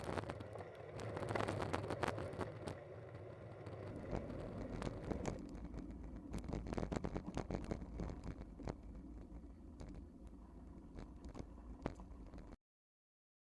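Bicycle riding over a rough dirt trail: tyres crunching on gravel, with rapid clicks and rattles and a low rumble. The sound cuts off suddenly near the end.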